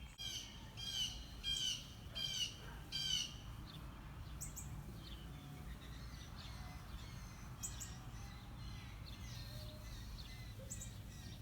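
A bird chirping outdoors: a quick run of about five short, repeated chirps in the first three seconds, then fainter scattered calls and a few high, thin notes.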